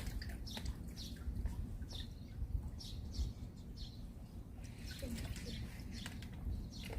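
Small birds chirping on and off in short, high calls, over a low steady rumble.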